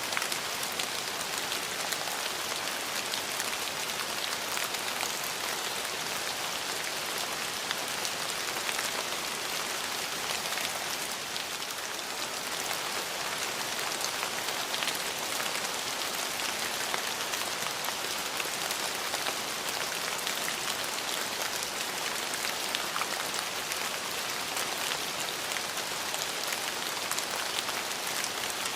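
Steady rain falling on a surface, a dense even hiss full of fine drop ticks.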